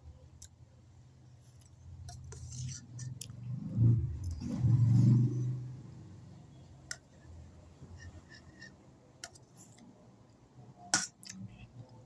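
Eating sounds: a utensil clinking and scraping against a plate of noodles and rice, a few sharp clicks spread through, the sharpest near the end, with a loud low muffled rumble between about four and six seconds in.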